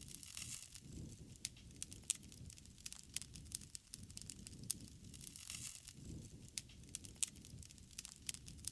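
Wood fire crackling, with irregular sharp pops and snaps of varying loudness over a soft low rumble of the flames, and a brief hiss now and then.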